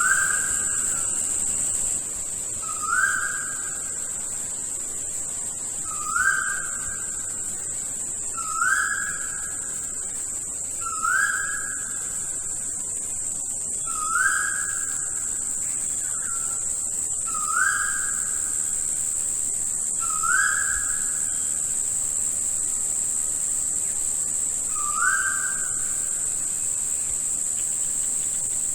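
Rainforest ambience: a bird gives one short whistled note about every three seconds, each note sliding up and then holding, over a steady high insect drone.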